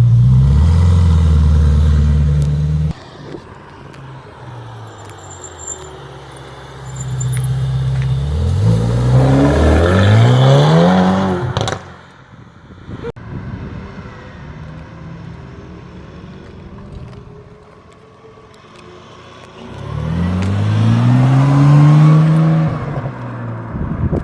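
Ferrari sports car engines accelerating in turn. A loud steady engine note drops away about three seconds in. A car then speeds up with rising pitch and stops abruptly just before halfway, and another rises then falls in pitch as it passes near the end.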